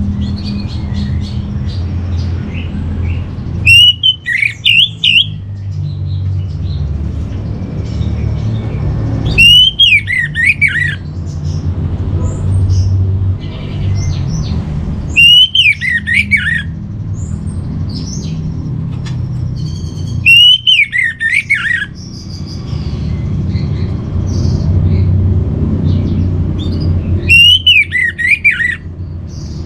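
Orange-headed thrush singing: five loud phrases spaced several seconds apart, each a rapid winding run of whistled notes that falls in pitch, over a steady low hum.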